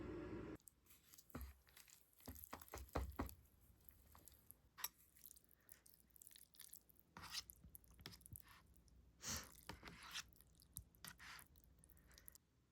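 Background music cuts off about half a second in, followed by faint scattered clicks and crunchy rustles.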